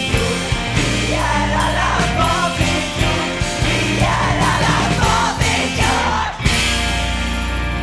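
Rock song played by a full band with drums. About six and a half seconds in the drums stop, and a held chord rings on as the song winds down.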